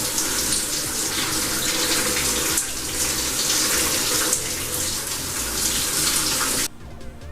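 Water running from a faucet and pouring over a head of hair held under it to soak it: a steady rushing that cuts off abruptly near the end.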